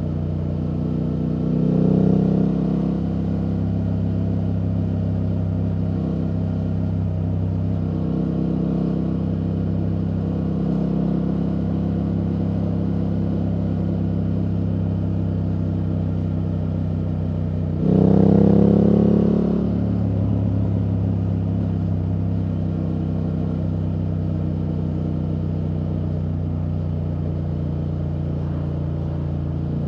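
BMW F800GS parallel-twin engine running through an Akrapovič exhaust at riding speed. The engine note is steady, with two short bursts of throttle where the pitch rises: about two seconds in, and again just past halfway.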